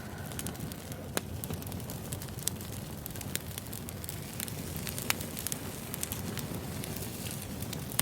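Wood fire burning: a steady low rumble with irregular sharp crackles and pops from the burning logs, a louder pop about five seconds in.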